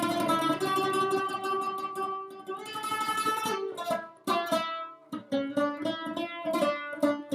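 Solo lavta, a fretted plucked lute, improvising: a run of fast, densely picked notes, then slower separate plucked notes with short pauses between them from about four seconds in.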